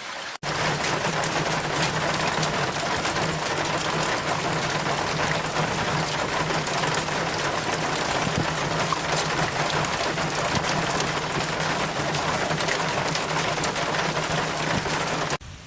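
Heavy, dense rain with a steady low hum underneath, louder than the rain around it; it cuts in abruptly just after the start and cuts out abruptly near the end.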